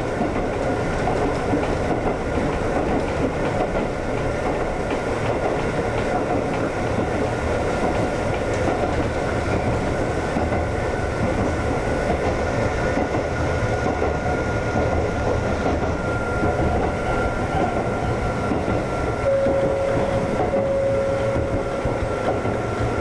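Ex-Tokyu 7000 series electric train running along the track: a steady rumble of wheels on rail with the clickety-clack of rail joints. A short whine sounds twice near the end.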